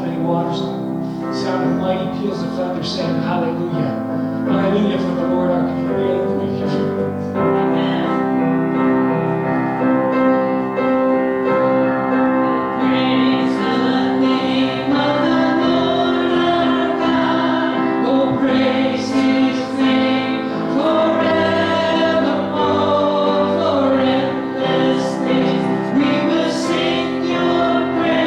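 Worship song with a group of voices singing over keyboard accompaniment.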